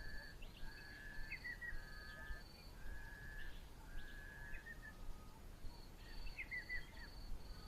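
Wild birds calling: a faint, level whistled note repeated about every second, with short gliding chirps in between, over a high, evenly repeated short note.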